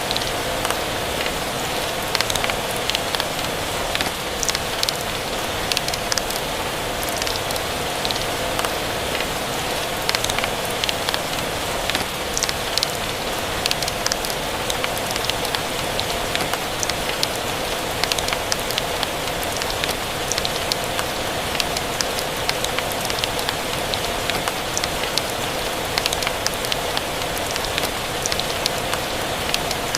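Steady rain falling and pattering, mixed with a crackling wood fire, many small irregular pops and ticks over an even hiss.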